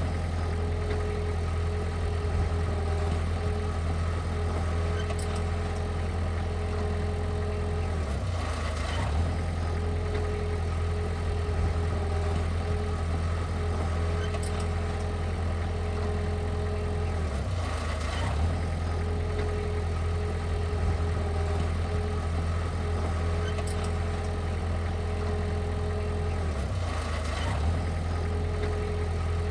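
Heavy machine engine running steadily with a low drone, with a brief change in the sound about every nine seconds.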